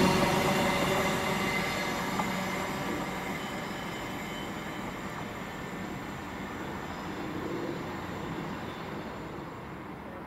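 LNER Azuma high-speed train passing at speed and running away into the distance, its steady running hum and rush fading out.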